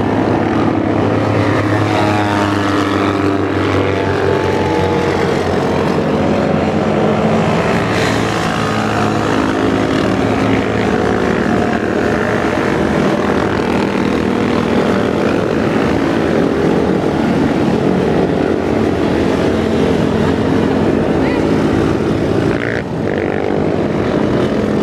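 Motorcycle engines running as a steady stream of motorcycles rides past, one engine note shifting into the next.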